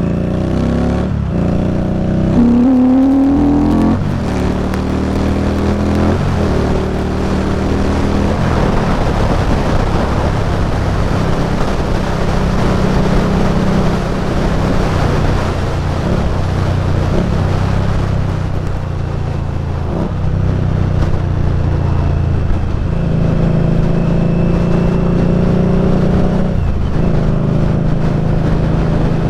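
Indian Scout Bobber's V-twin engine under way, its pitch climbing and dropping through several gear changes in the first few seconds, then settling into a steady cruise. Wind rushes over the microphone at speed, loudest in the middle stretch.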